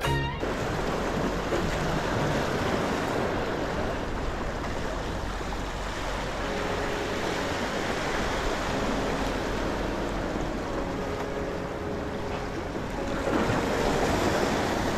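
Sea waves washing on the shore, a steady rushing with a louder surge about thirteen seconds in, and some wind on the microphone.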